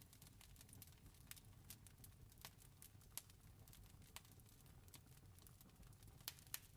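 Campfire crackling faintly: irregular sharp snaps and pops over a low rumble, with a few louder pops about three seconds in and again near the end.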